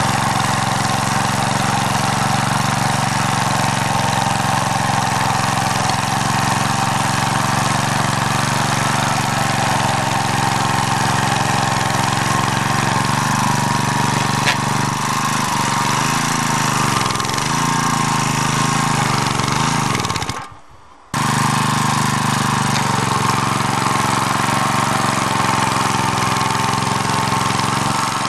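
Engine of an MD3 walk-behind tractor running steadily in first gear while its rotary tiller cuts through soil. Its pitch wavers as the load changes, and the sound drops out briefly about twenty seconds in before the engine comes back at the same steady note.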